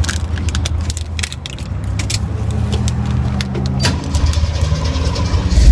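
Jeep engine running, heard inside its bare metal cabin, with frequent sharp clicks and rattles over the steady hum.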